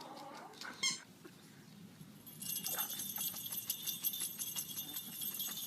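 Small jingle bells shaking rapidly for about three seconds, after a short high squeak just under a second in.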